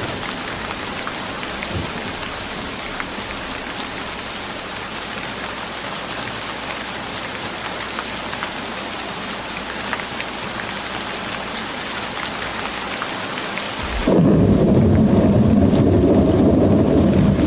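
Steady rain, a dense hiss with many fine drop ticks. About fourteen seconds in it changes abruptly to a louder, deep rumble, and the high hiss drops away.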